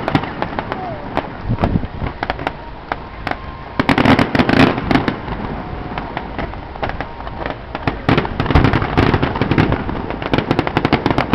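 Fireworks display: rapid crackling bangs and pops, in dense bursts about four seconds in and again near the end.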